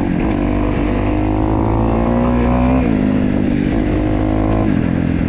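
2015 Kawasaki KX250F's fuel-injected four-stroke single-cylinder engine under way, running cleanly now that its tight intake valves have been readjusted. The revs climb, drop sharply about three seconds in, climb again and drop near the end, as it is taken through the gears.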